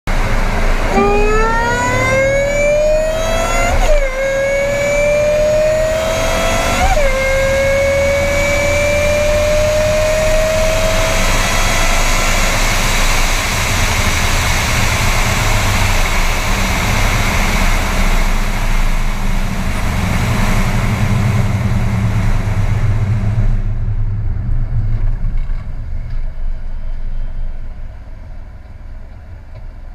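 A high-performance car engine accelerating hard through the gears. Its pitch climbs, dips at upshifts about four and seven seconds in, then climbs more slowly before settling into a steady rush at speed that fades away over the last few seconds.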